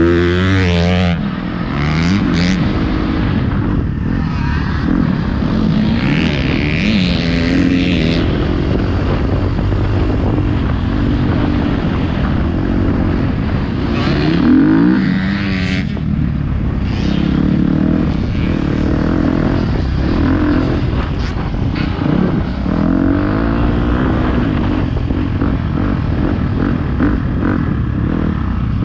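Motocross bike engine revving hard and dropping back again and again, the pitch sweeping up and down through gear changes and throttle blips.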